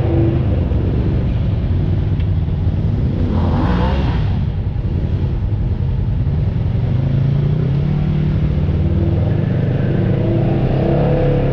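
Off-road vehicle's engine running steadily under load, with a brief rush of noise about four seconds in.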